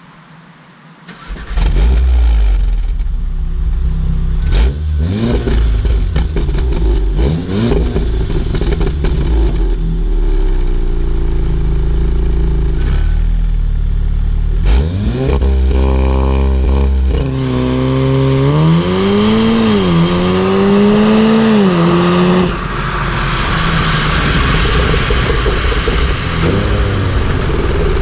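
Volkswagen Golf R's turbocharged 2.0-litre four-cylinder engine and exhaust starting up about a second in, then revved in a series of quick blips between stretches of idle. In the second half it is revved longer, rising and falling twice, before dropping back to idle.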